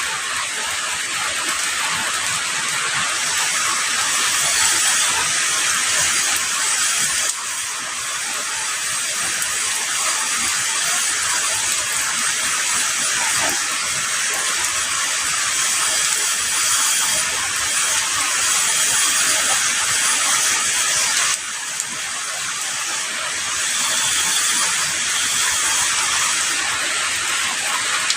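Heavy rain falling steadily, a dense, hissing downpour. The level drops abruptly twice, about a quarter of the way in and again about three quarters in, then swells back.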